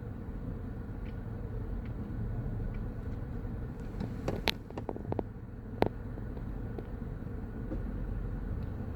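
Steady low rumble of vehicle traffic, with a quick run of sharp clicks and taps about four to six seconds in.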